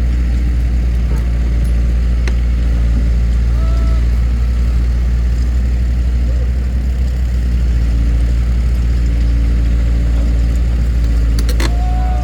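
An engine runs steadily at low speed with an even, low hum. A sharp click comes about two seconds in and another near the end.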